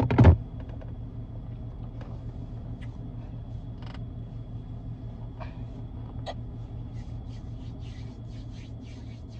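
Car engine idling, heard from inside the cabin as a steady low hum with faint scattered ticks. Two sharp knocks come right at the start.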